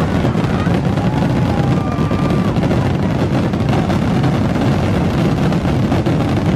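Fireworks finale: a dense, unbroken barrage of booming bursts and crackling with a continuous low rumble.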